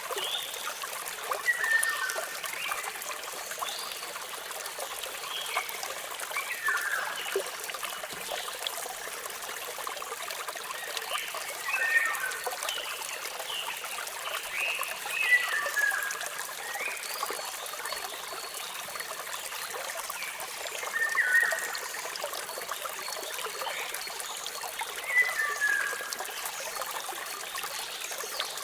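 Waterfall giving a steady rush of falling water, with a bird calling over it: short falling chirps about every four or five seconds.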